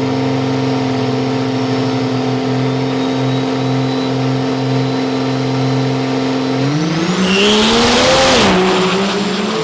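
Turbo-diesel drag-race trucks staged at the start line, engines held at steady raised revs. About two-thirds of the way in they launch: the engine note climbs with a rising high whine, and the sound peaks loudest a second or two later before settling into a new lower pitch near the end.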